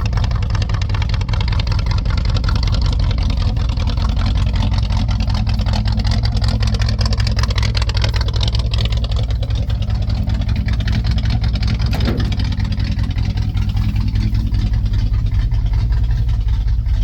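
1965 Chevrolet C10 pickup's engine idling steadily while it warms up after a cold start.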